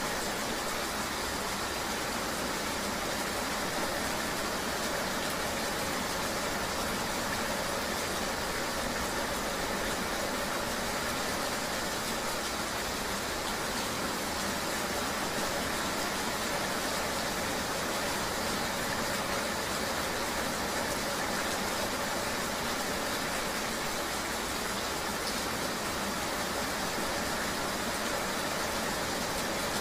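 Steady, unchanging ambience of rain noise with the hum of a running vehicle engine underneath, with no sudden events.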